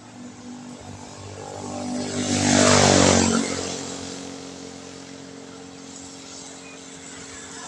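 A motor vehicle passing on a wet road: tyre hiss and engine hum swell to a peak about three seconds in, then fade as it moves away.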